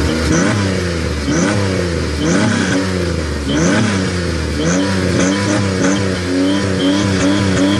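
Oldsmobile Intrigue's 3.5-litre dual-overhead-cam V6 running through a cutout exhaust, revved in quick blips about once a second, then held steady for the last few seconds.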